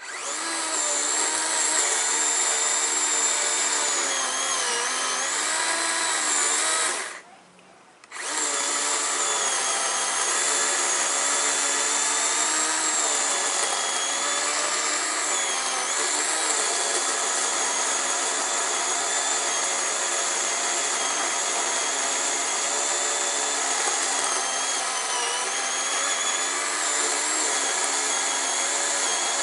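An electric power saw cutting into a black walnut trunk, its motor whine dipping and wobbling in pitch under load. It stops for about a second some seven seconds in, then starts again and runs steadily.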